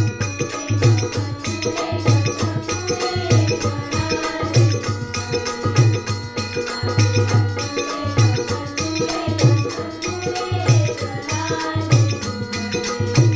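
Marathi bhajan music: a melody over a steady drum beat, with hand percussion.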